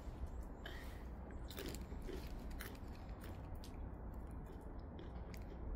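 A child biting into and chewing a crunchy snack, with a few crisp crunches in the first three seconds, then quieter chewing.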